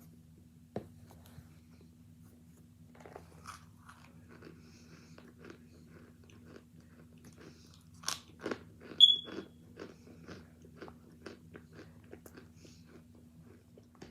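Someone biting and chewing hard chunks of cornstarch. There are a few crunches early on, a loud crunching bite about eight seconds in, and then steady chewing crunches about twice a second. A faint steady low hum runs underneath.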